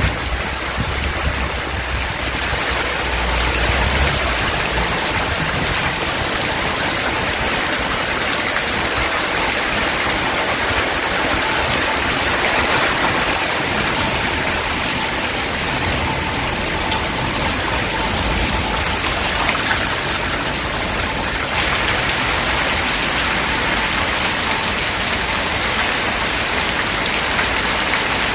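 Heavy rain pouring down steadily in a thunderstorm, getting a little louder about two-thirds of the way through.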